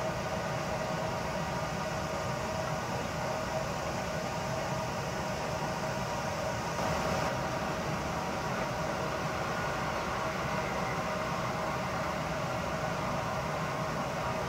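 Electric passenger trains running along the line at a distance: a steady rumble with a constant hum.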